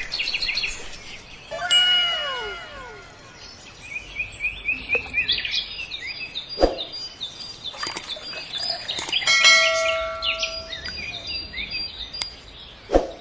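Birds chirping in a string of short, high calls, with a few sharp clicks in between.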